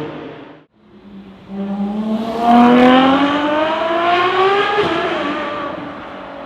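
V12 supercar engine accelerating hard, its pitch rising steadily for about three seconds, then dropping about five seconds in and fading away. A different engine note cuts off just under a second in.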